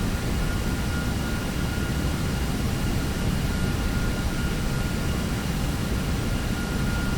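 Steady on-board noise of an Airbus A321neo descending on approach: rushing airflow and engine hum, with a faint high steady whine running through it.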